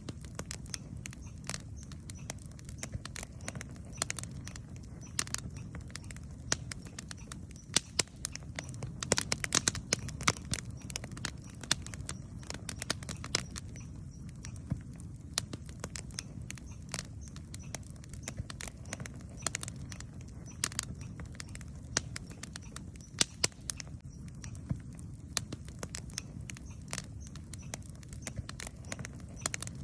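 Campfire burning, with a steady low rumble under frequent sharp crackles and pops of burning wood, which come thickest about a third of the way in.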